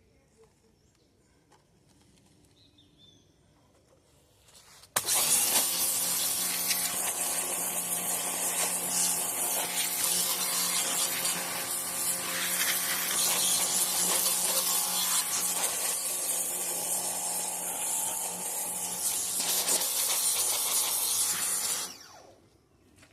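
A power tool running under load with a steady hum and a harsh grinding hiss. It starts suddenly about five seconds in after a quiet stretch and stops abruptly near the end.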